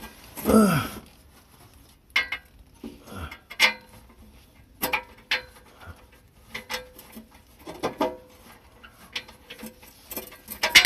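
Metal tools clinking and clanking against metal, in sharp irregular knocks about once a second, typical of work on an exhaust. A short falling voice-like sound comes in the first second.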